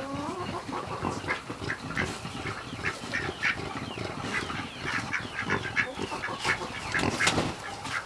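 Ducks quacking in rapid, continuous chatter.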